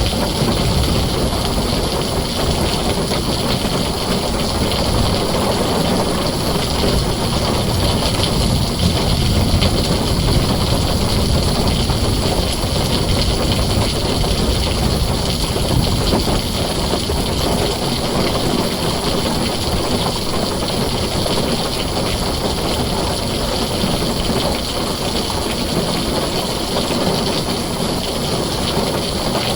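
Heavy rain drumming steadily on a tin roof, a dense even wash of noise with a constant low rumble underneath.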